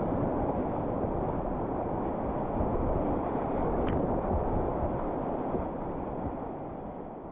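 Rushing whitewater of a river, a steady roar that fades out gradually toward the end.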